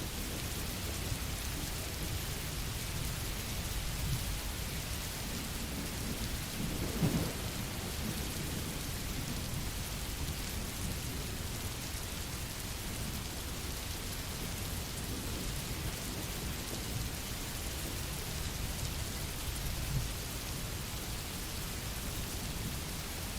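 Steady rain, with low rolling thunder rumbling underneath; the thunder swells louder about seven seconds in and briefly again near the end.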